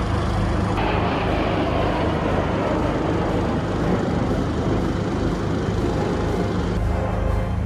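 Steady engine noise of a display aircraft flying overhead, a continuous broad rumble with a change in tone about a second in and again near the end.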